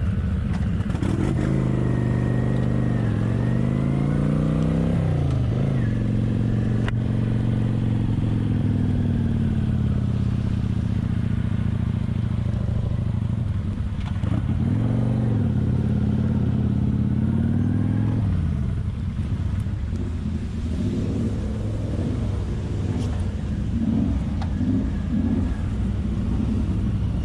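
Kawasaki Vulcan 900's V-twin engine running while riding, its pitch falling and climbing again with gear changes and throttle several times, a swing in the first few seconds and another about halfway through, then settling lower and rougher for the last third.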